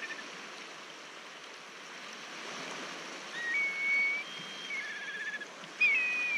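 Several clear whistled bird calls, some held on one pitch and some wavering in a trill, with the loudest call near the end, over a steady rushing background.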